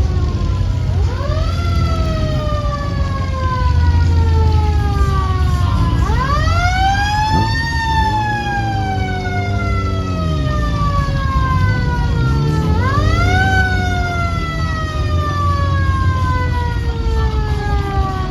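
Mechanical siren wailing: it winds up quickly to a high pitch, then slowly winds down. This happens three times, over a steady low engine rumble.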